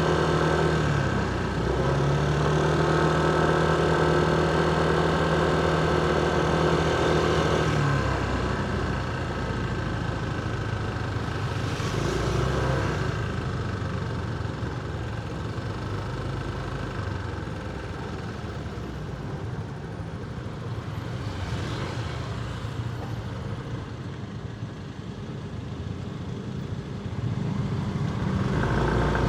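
Motorcycle engine running steadily under way, with a brief dip in pitch about a second in. After about eight seconds it drops to a quieter stretch of engine and street-traffic noise, with a couple of vehicles swelling past, and it picks up again near the end.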